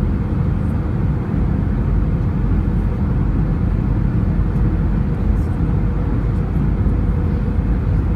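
Steady rumble of an airliner cabin's engine and airflow noise, with a faint steady hum over it.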